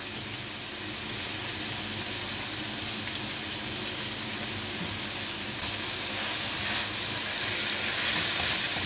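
Tomatoes, green capsicum and spices frying in hot oil in a pan: a steady sizzle that grows louder about halfway through.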